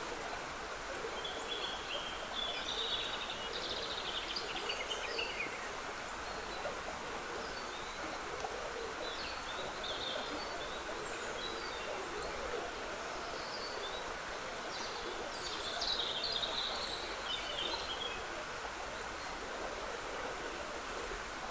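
Small woodland stream trickling steadily, with songbirds singing scattered phrases over it, the fuller phrases a couple of seconds in and about three-quarters of the way through.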